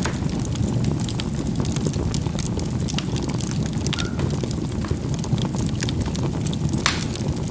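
Charcoal burning in a fireplace: a steady low rush of flame with frequent small crackles and a few sharper pops as the charcoal bursts.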